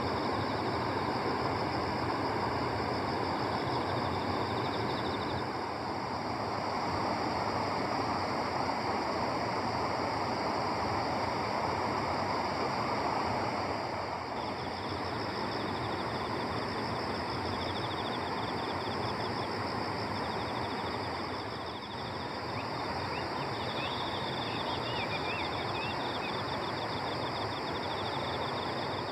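Insects trilling in rapid pulsed runs, stopping for a while and starting again, over a steady rushing background noise.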